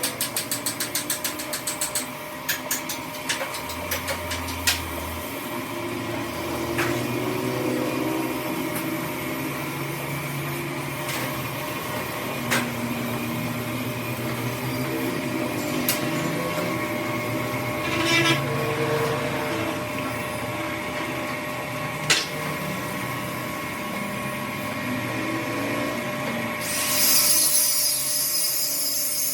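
Workshop machinery running with a steady hum, with rapid clicking at the start, a few scattered sharp knocks, and a loud hissing sound that starts near the end.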